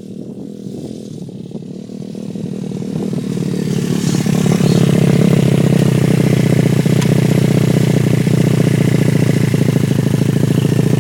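Dirt bike engine running, growing louder over the first four seconds as it nears, then holding loud and steady.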